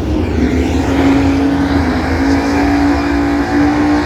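Drag-racing cars' engines under full throttle down the strip, the engine note stepping up in pitch a few times, over a steady low rumble.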